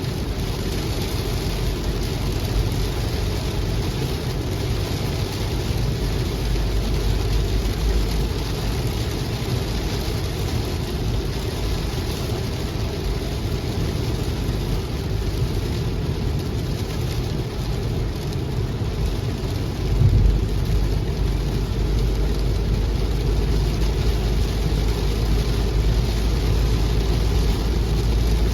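Heavy rain falling, a steady hiss over a deep low rumble, with a brief louder swell about twenty seconds in.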